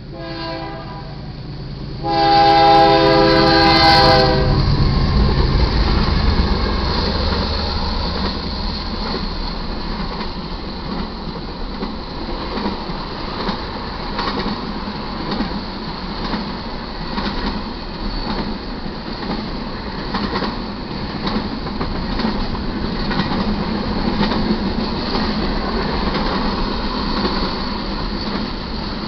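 BNSF GE C44-9W diesel locomotive horn: a faint note, then a loud blast of about two seconds, with a deep diesel rumble as the lead units pass. Then double-stack intermodal cars roll by with a steady rumble and clatter of wheels on rail.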